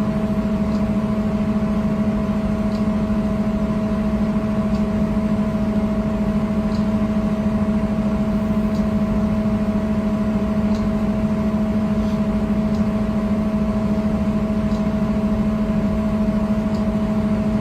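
Train running with a steady, unchanging mechanical hum made of a few fixed tones, with faint light ticks about every two seconds.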